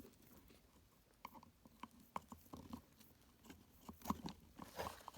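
Faint, scattered small clicks and wet, sticky handling noises of oily rubber O-rings being worked off the old oil filter by hand.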